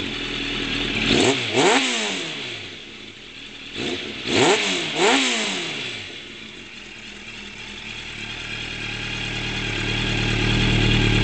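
2003 Suzuki Katana 600's inline-four through a full D&D aftermarket exhaust, blipped twice so the note shoots up and drops back, then running on a steady low note that grows louder toward the end.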